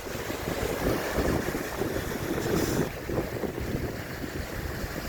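Wind buffeting the microphone in gusts, with ocean waves washing on the shore behind it.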